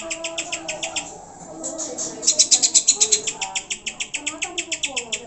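Green leafbird (cucak hijau) giving a fast, high chattering call of sharp repeated notes, about eight a second, broken by a short pause about a second in. Fainter gliding whistled notes run underneath.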